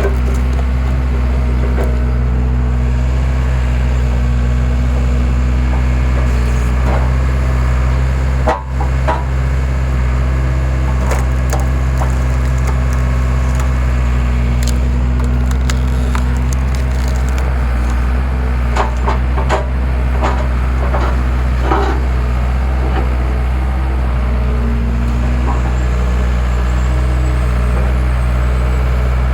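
Skid steer engine running steadily while a homemade skid-steer log splitter forces wood apart, the logs cracking and splintering. A sharp crack comes about eight and a half seconds in, and a cluster of cracks follows around two-thirds of the way through.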